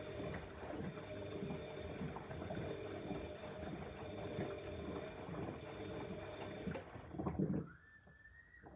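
Bosch Exxcel 1400 washing machine tumbling a wash load, with water sloshing in the drum over the motor's steady run. It stops abruptly a little before the end, and a short, higher tone sounds just after.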